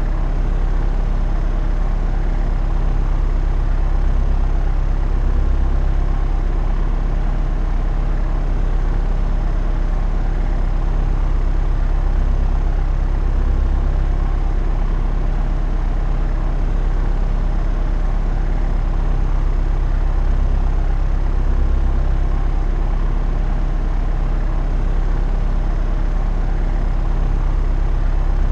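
Propeller aircraft in cruise flight: the engine and propeller drone steadily, with a deep, fast, even throb.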